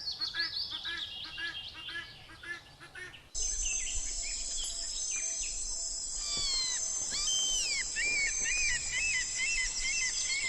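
Guinea fowl calling in a rapid repeated series, about three calls a second. A little over three seconds in, the sound changes suddenly to a steady high insect drone with chirping, whistled bird calls over it.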